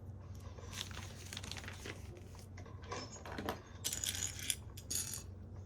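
Handling noise: rustling and light clicking of small hard objects, in irregular bursts that are busiest between about three and five seconds in, over a steady low hum.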